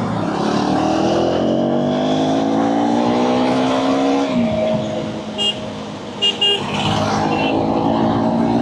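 Motorcycle engine accelerating, its pitch climbing steadily for about four seconds, then dropping as the throttle is eased and running on at a steady pitch. A few short high beeps come between about five and seven and a half seconds in.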